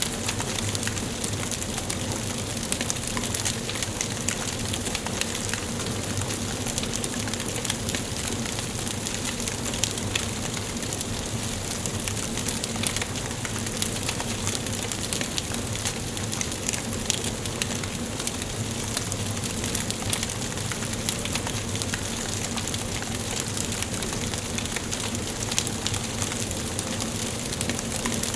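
Wood fire burning in a fireplace: many small crackles and pops over a steady hiss.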